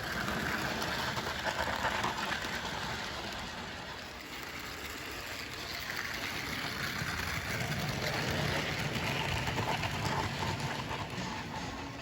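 HO-scale model train running on Kato sectional track, a steady rushing clatter of wheels on rails that swells twice, near the start and again through the second half.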